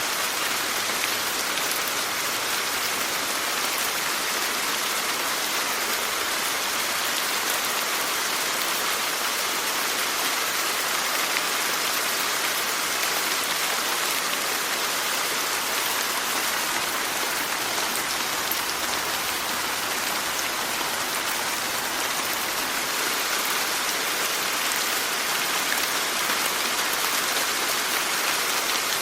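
Steady rainfall: an even hiss of rain falling on a surface, with faint individual drops now and then.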